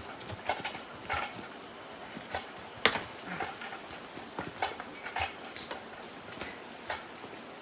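Scattered light snaps, clicks and knocks as a fallen tree is worked loose by hand, with one sharper crack about three seconds in.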